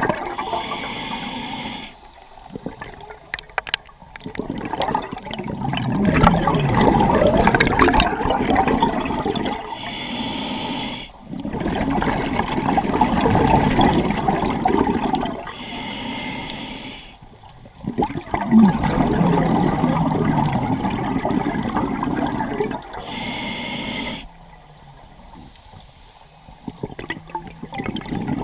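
Scuba diver breathing through a regulator. Each breath in is a short hiss, and each breath out is a long burst of bubbles. The cycle repeats about every six to seven seconds, about four times.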